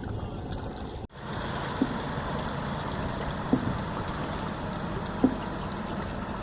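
Wooden canoe being rowed through calm water: a steady wash of water with a short knock about every second and a half to two seconds, in time with the oar strokes. The sound cuts out briefly about a second in.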